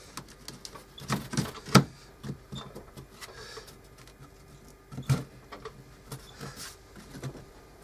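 Light knocks and clicks of small wooden pieces being handled and set in place for gluing. The sharpest knock comes just under two seconds in, and another a little after five seconds.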